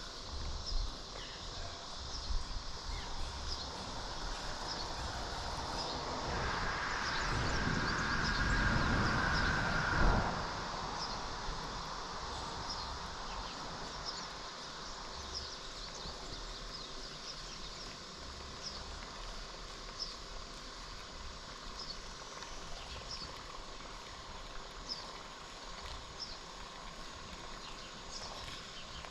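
Steady outdoor ambience with a constant rush of water and repeated short, high chirps. About six seconds in, a louder swell of noise with a steady high whistle-like tone builds for a few seconds, then cuts off sharply with a click near ten seconds.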